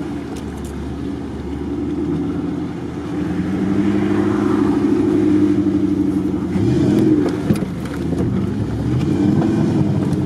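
Off-road SUV's engine running, heard from inside the cabin while the vehicle drives slowly; the engine note rises briefly about seven seconds in.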